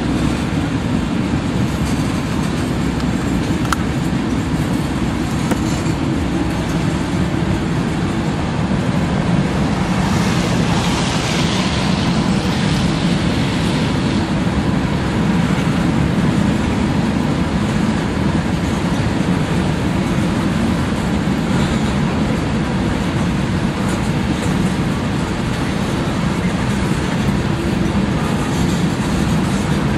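Tank cars of a freight train rolling past on the rails: a steady low rumble of wheels on track. It turns briefly harsher and hissier about a third of the way through.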